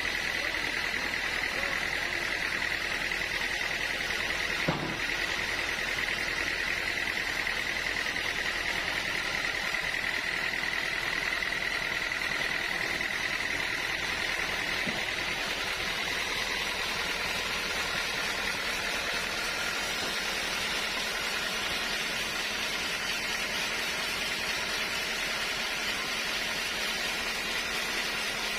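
Sawmill machinery running steadily, with a high whine that fades away about halfway through and a single sharp knock about five seconds in.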